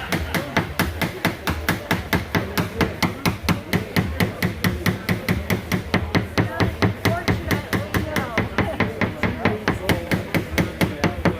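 Rapid, even hammer tapping, about five taps a second, with a steady low hum underneath.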